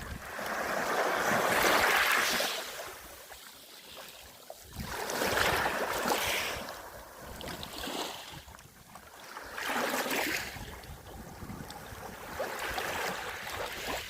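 Small sea waves washing in on a beach, a rushing hiss that swells and fades about five times, a few seconds apart.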